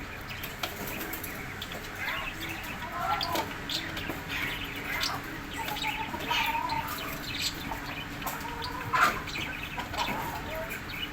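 Birds calling over one another: many short calls and chirps at different pitches, one louder call about nine seconds in, over a steady low hum.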